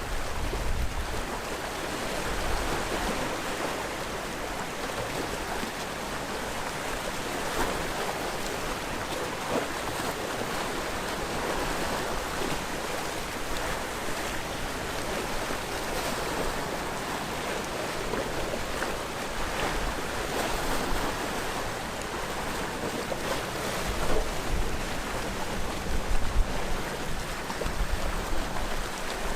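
Sea waves breaking and washing ashore: a continuous rushing surf that swells and eases. Gusts of wind rumble on the microphone near the end.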